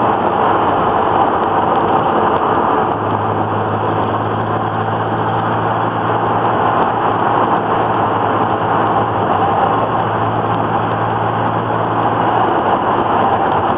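Datsun Z car running, heard from inside the cabin: a constant rush of noise, with a steady low engine drone holding one pitch from about three seconds in until near the end.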